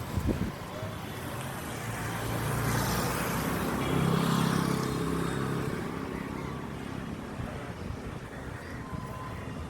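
A motor vehicle passing, its engine hum swelling to its loudest about four seconds in and then fading into steady background traffic noise.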